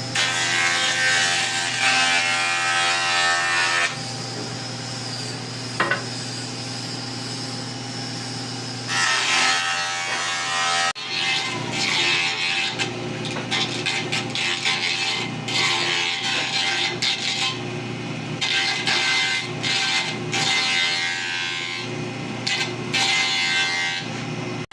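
An 8-inch TORQ electric planer-jointer running with a steady motor hum, its cutterhead taking passes over a wooden board in loud, noisy stretches that come and go, heaviest at the start and through the second half.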